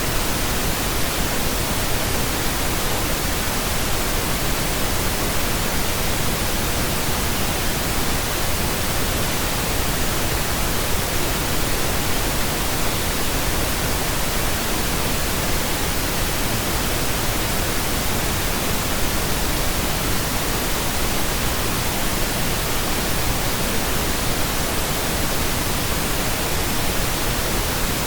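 Steady pink noise: an even, unbroken hiss spread across all pitches.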